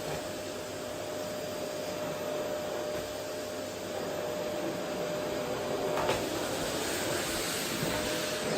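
Vacuum cleaner running steadily: a constant rush of air with a steady tone in it, growing slightly louder about four seconds in, with a short knock about six seconds in.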